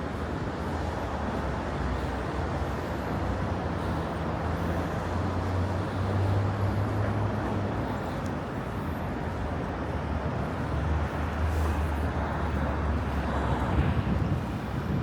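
City street traffic: a steady wash of road noise with a low engine hum from passing cars, swelling as vehicles go by about six seconds in and again about eleven seconds in.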